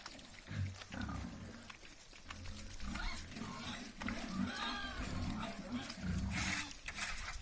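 Piglets grunting in repeated short, low bouts.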